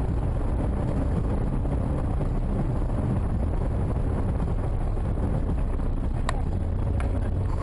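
Steady low road and wind rumble of a car driving along a highway, as picked up by its dashcam, with two faint clicks near the end.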